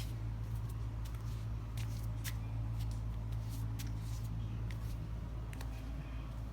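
Footsteps and handling noise: scattered light clicks and scuffs over a steady low hum.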